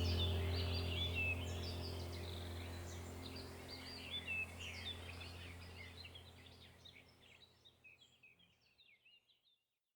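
Small birds chirping in quick, busy calls over a low steady hum, the whole sound fading out to silence near the end.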